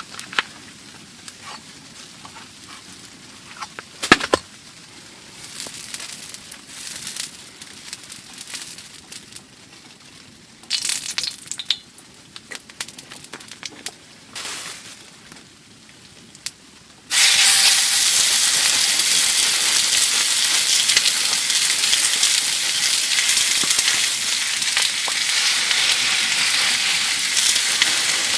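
Scattered light handling clicks and a sharp knock, then about two-thirds of the way through food goes into a hot pan on a wood stove and starts sizzling suddenly, a loud steady frying hiss.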